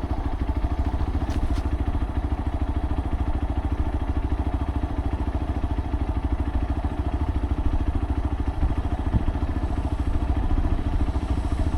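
Motorcycle engine running at a steady speed, its firing pulses even, with no change in revs.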